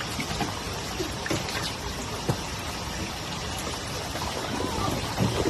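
Steady rush of running water, with a few light knocks scattered through it.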